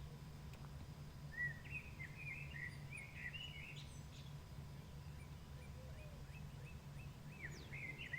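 Songbird singing in the dawn chorus: a run of quick chirpy notes about a second in, and another short phrase near the end, over a steady low hum.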